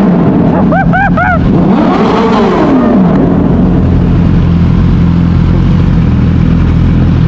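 Suzuki sportbike engine, loud, revving up and back down about two seconds in, then running at a steady pitch. Three short high chirps sound about a second in.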